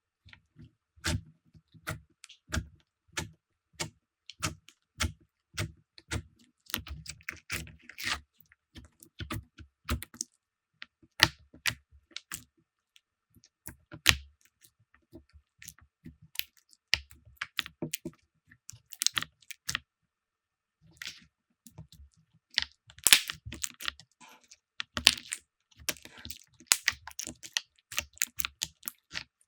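Slime being pressed and poked by hand, giving a run of sharp clicks and crackles: spaced out at first, then denser crackling in the second half.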